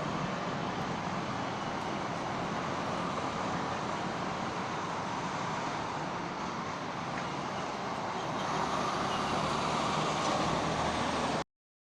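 Steady motor-vehicle running noise, a little louder near the end, then cutting off abruptly.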